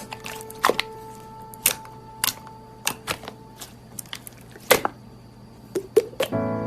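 Slime being squeezed and poked by hand, giving irregular sharp wet pops and clicks, with the loudest pops about halfway through and near the end.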